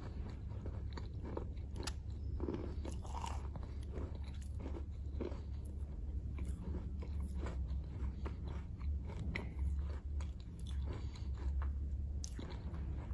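Close-miked chewing of a mouthful of chalk: repeated crisp crunches and crackles as the chalk breaks between the teeth, mixed with softer pasty chewing, over a steady low hum.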